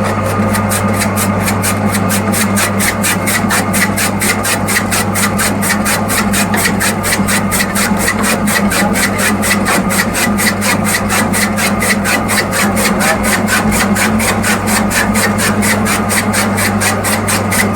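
Small motor-driven miniature chaff cutter running steadily, a constant hum with an even, rapid clicking of about six or seven beats a second.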